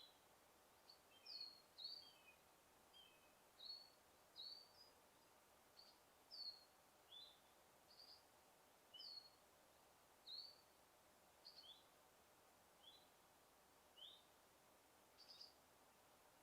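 A bird calling in a forest: a run of short, high chirps, about one a second, some sliding down and some up, over a faint steady background hiss.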